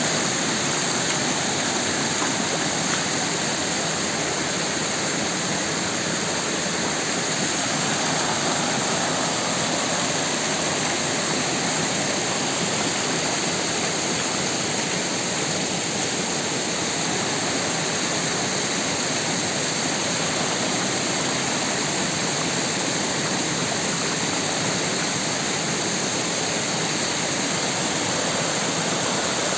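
Rushing water of a rain-swollen creek, flowing steadily.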